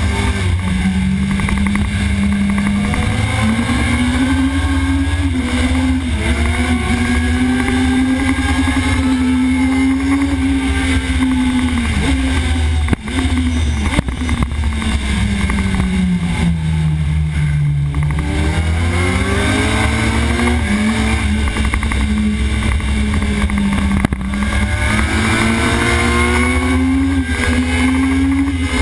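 Sport motorcycle engine at racing speed, heard from an on-board camera behind the windscreen, its revs climbing and falling through the gears and dropping lowest a little past the middle before rising again. A heavy low rumble of wind and vibration from the poorly mounted camera runs under it.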